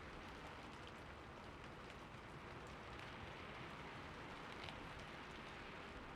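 Soft, steady rain falling, an even hiss with faint scattered drop ticks.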